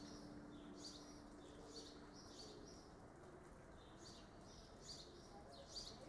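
A small bird chirping over and over, faint, at about one short high chirp a second. The last note of background music fades out in the first second or so.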